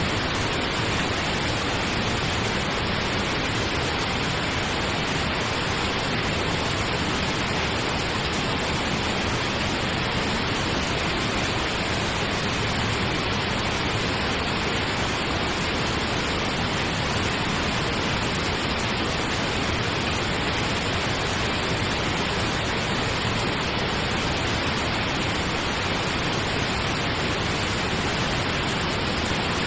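Steady pink noise: an even hiss that never changes in level or character.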